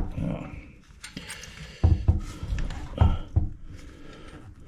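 Several short knocks and clunks, about five in a few seconds, from handling the metal tank bolts and washers against the porcelain toilet tank and bowl.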